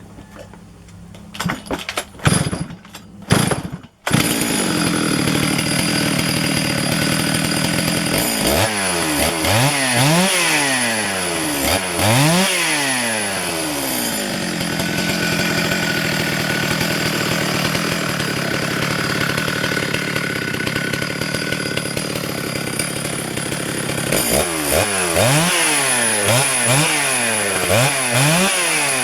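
Freshly cleaned Stihl MS 651 two-stroke chainsaw sputtering a few times, then catching about four seconds in and running. It is revved up and down several times, runs steadily for a while, then is revved repeatedly again near the end.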